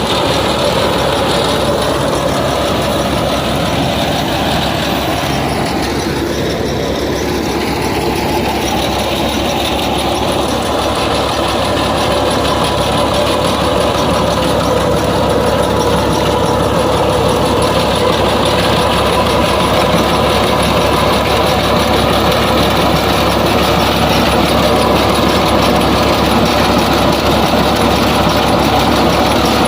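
Fiat 480 tractor's diesel engine running steadily with the thresher machine it drives, a continuous loud mechanical drone with a brief wavering in pitch several seconds in.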